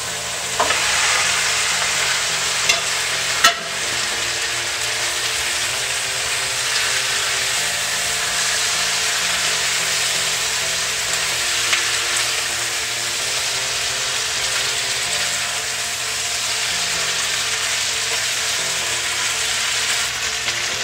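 Boiled potato cubes sizzling and frying in hot oil and red chili chutney in a nonstick pan, stirred with a spatula. There are a few sharp knocks against the pan in the first few seconds and once more about twelve seconds in.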